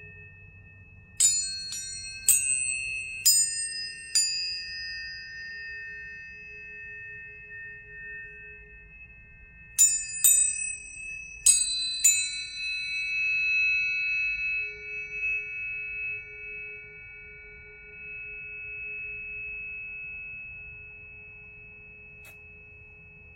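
Planetary tuning forks struck in two groups of quick strikes, about five near the start and four more around halfway, each strike a sharp tap followed by long, steady, high ringing tones that overlap and slowly fade.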